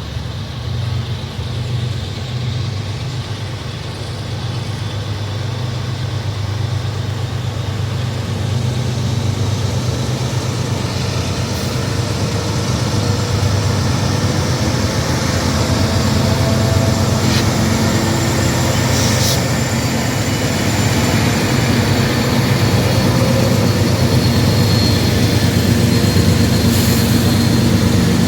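Diesel locomotive engines running with a steady low drone that grows gradually louder.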